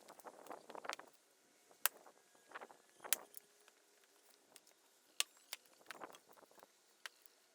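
A few scattered sharp wooden knocks among scuffing rustles, from firewood being handled.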